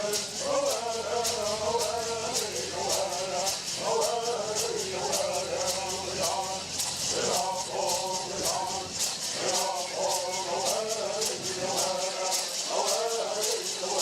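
Men singing a Southern California bird song together in phrases of a few seconds with short breaks, accompanied by gourd rattles shaken in a fast, steady beat.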